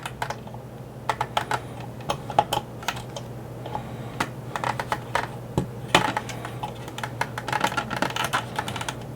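Irregular small clicks and taps of a screwdriver and hard plastic as pins are worked out of a 1983 G.I. Joe Skystriker toy jet's plastic shell.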